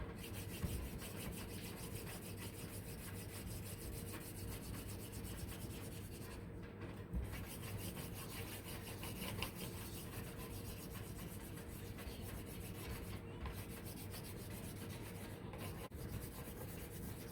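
Brown wax crayon rubbed across a sheet of paper in rapid back-and-forth strokes, a steady scratchy rasping while a whole A4 page is coloured in.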